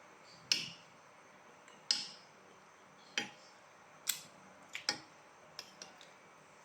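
Close-up eating noises: a series of about eight sharp, irregular clicks and crunches, the loudest about half a second and two seconds in.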